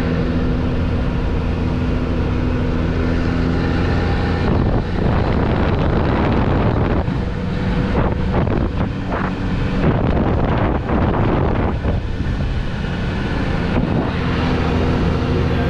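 A motor vehicle's engine running at a steady pitch, with wind buffeting the microphone as it travels. From about four and a half seconds in until near the end, gusty noise rises over the steady engine tone, which comes back clearly in the last second or two.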